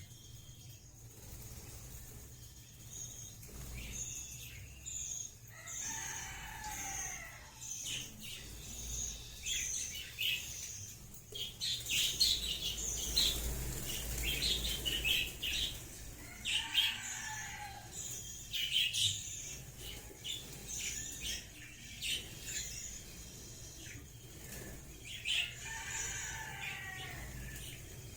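Budgerigars chirping and chattering: many short high chirps, with longer warbling calls that bend in pitch about six seconds in, again around seventeen seconds and near the end.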